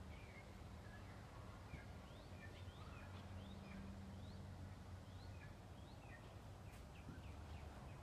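Faint chirps of small birds: many short calls scattered through, some rising and some falling in pitch, over a low steady hum.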